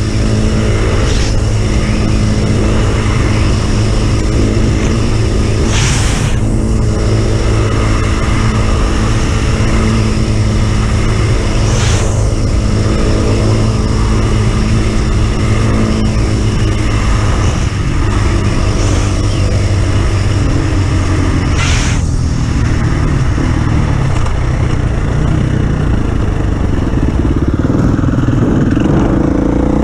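Off-road vehicle engine running steadily at low revs, with a few sharp knocks along the way; near the end the revs begin to rise.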